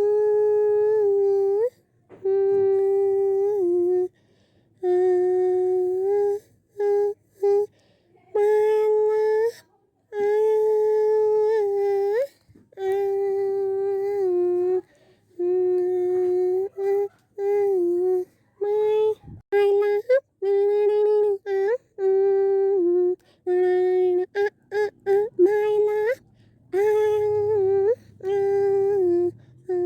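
A high-pitched voice humming a simple tune in short held notes, each phrase one to two seconds long with brief pauses between, the pitch barely moving except for small slides at the ends of notes.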